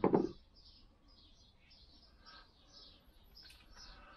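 Faint birdsong: a quick string of short, high chirps and twitters from small birds. A brief, loud clatter at the very start.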